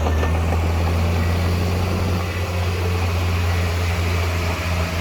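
Heavy diesel engine of earth-moving machinery running steadily, with a deep, even low hum.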